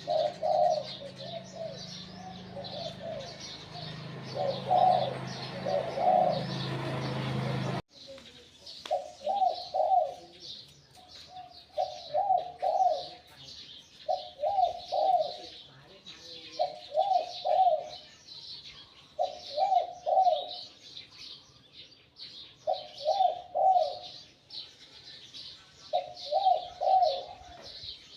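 Spotted dove decoy bird cooing, phrases of two or three notes repeated every two to three seconds, over constant high bird chirping. A low hum underneath stops abruptly about eight seconds in.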